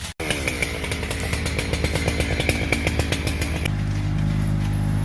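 Small gasoline engine running, with rapid regular firing pulses and a high whine; about two-thirds of the way through it gives way abruptly to a lower, steadier engine hum.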